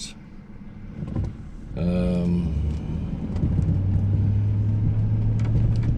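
Truck engine and road noise during driving: a steady low drone that firms up about three and a half seconds in. A brief vocal sound comes just before it, around two seconds in.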